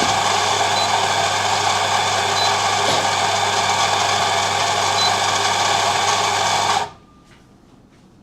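Espresso grinder motor running steadily as it grinds a dose of coffee of about 18 g into the portafilter, then switching off suddenly about 7 seconds in.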